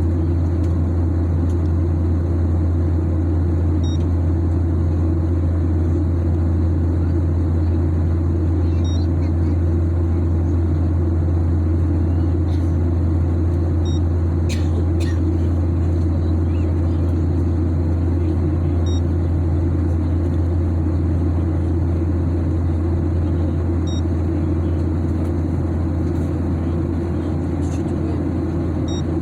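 Steady low drone of an airliner cabin in flight, even and unchanging throughout. A faint short high beep repeats about every five seconds.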